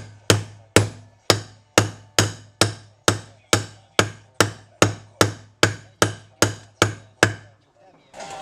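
A hammer striking metal in a steady rhythm, about two blows a second, some seventeen in all, each with a short metallic ring, stopping about a second before the end. This is the hammering of a motorcycle steering head bearing race being driven.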